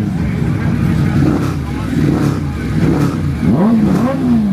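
Motorcycle engines running on the street, revved in short rising-and-falling blips, the strongest near the end.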